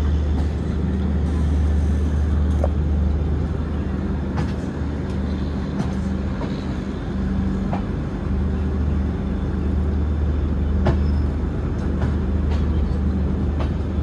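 Passenger train running slowly, heard from the doorway of a moving carriage: a steady low rumble with scattered sharp clicks and short squeaks from the wheels on the rails.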